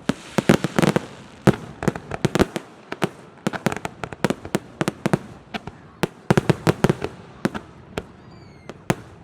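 Fireworks display with many sharp bangs of aerial shells bursting, coming in quick volleys about half a second in and again around six seconds in.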